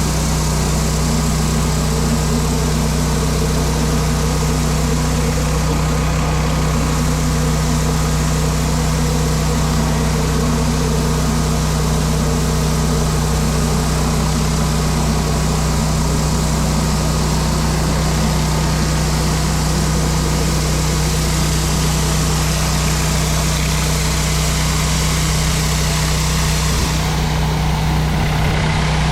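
Pressure washer's engine running steadily, with the hiss of high-pressure water spraying onto concrete; the hiss shifts slightly near the end.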